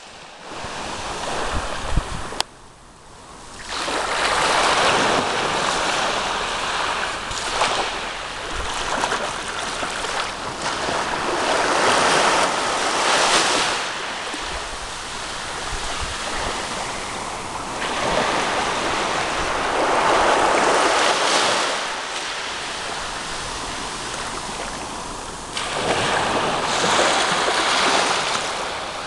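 Sea waves breaking and washing up the shore, swelling and fading in long surges every several seconds.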